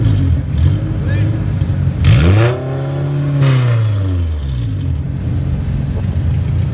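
Honda K20 inline-four engine idling with a couple of short throttle blips, then revved up about two seconds in, held briefly, and let fall back to idle.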